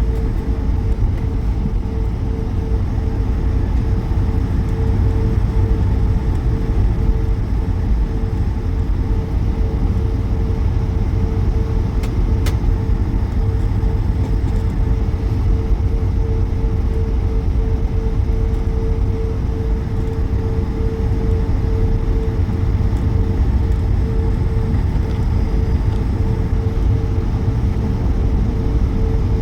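Steady engine and airflow noise heard inside the cabin of an Airbus A220 airliner: a deep rumble with a constant mid-pitched hum over it, unchanging throughout.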